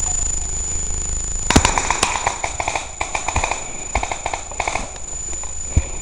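Airsoft guns firing several short full-auto bursts of rapid clicks, beginning about a second and a half in and ending near five seconds.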